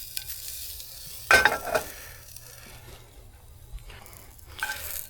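Brats sizzling in a frying pan, with the spatula turning them and clattering sharply against the pan about a second in and again more lightly near the end.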